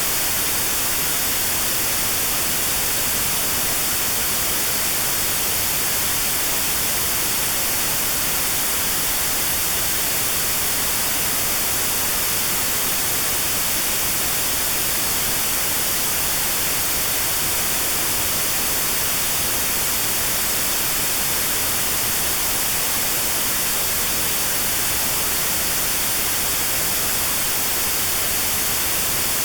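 Steady white noise with a narrow notch cut out around 4 kHz, a hiss that stays even throughout: notched sound therapy aimed at 4 kHz tinnitus.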